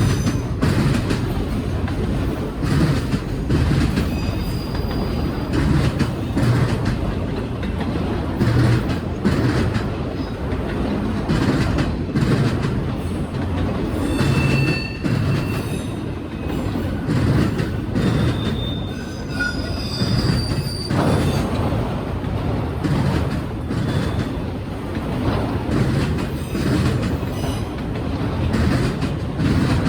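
Norfolk Southern freight train's cars rolling past, a steady rumble with the clatter of wheels over rail joints. There are brief high wheel squeals about halfway through.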